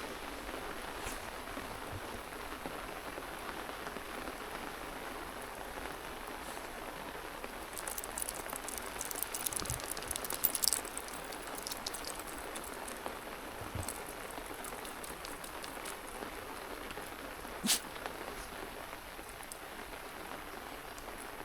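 Steady rain falling, an even hiss, with a short patch of sharper ticks about halfway through and a single click near the end.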